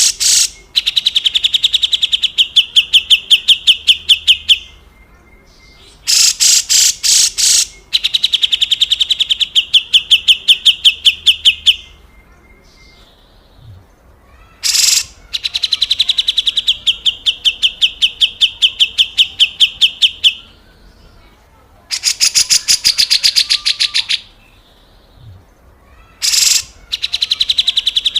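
Grey-cheeked bulbul (cucak jenggot) giving harsh, rough rattling calls: bouts of rapid sharp notes, about ten a second. Each bout opens with a few loud harsh notes, then runs on steadily for several seconds, and the bouts repeat about five times with short pauses between them.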